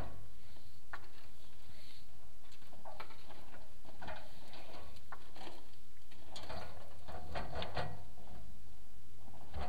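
Irregular clicks, knocks and scrapes of a chimney inspection camera and its feed line as they are worked down a clay-tile flue, bumping and rubbing against the tiles and joints, with a busier spell of rattling a little past the middle.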